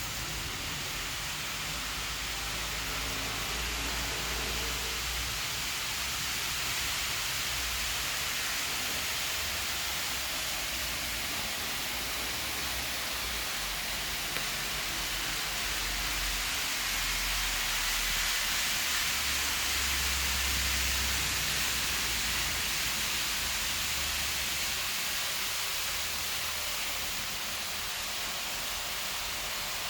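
Steady hiss, with a low rumble that comes and goes beneath it.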